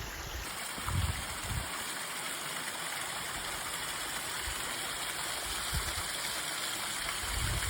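Cascading waterfall rushing steadily, flowing full after heavy rain. A few short low thumps come through underneath, about a second in and again later.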